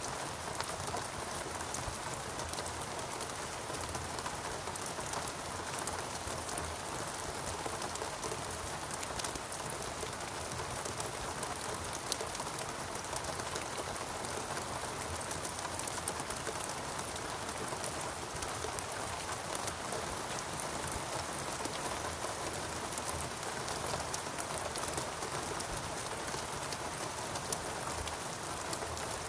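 Steady rainfall in a rainforest, a continuous hiss of rain with many fine individual drop patters.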